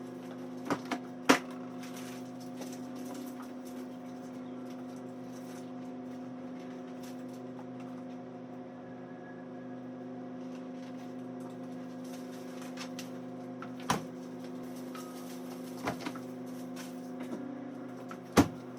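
A steady machine hum with a few sharp clicks and knocks, the loudest about a second in and near the end.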